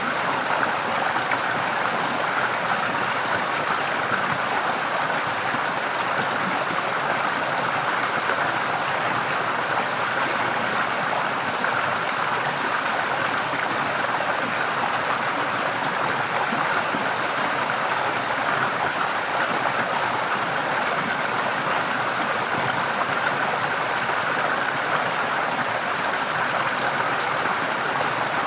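Forest stream running water, a steady unbroken rushing and splashing with no distinct events.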